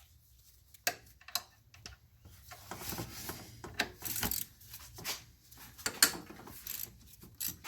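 Scattered light clicks and taps of hand tools: a 12 mm socket and ratchet being fitted to an alternator mounting bolt and worked. The clicks come more often from about two and a half seconds in.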